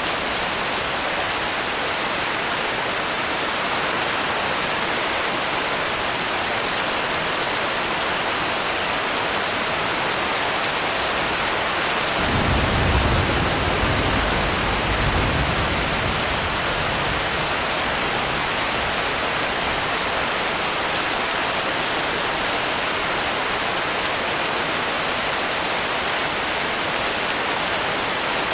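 Steady rain. About twelve seconds in, a low rumble of distant thunder rolls for a few seconds and fades.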